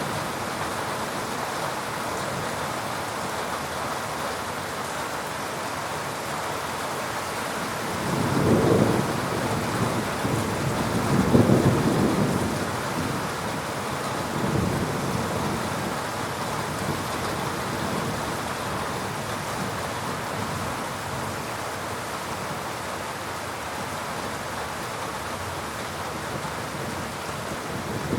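Heavy rain falling steadily, with thunder rumbling twice about a third of the way in and a fainter rumble soon after.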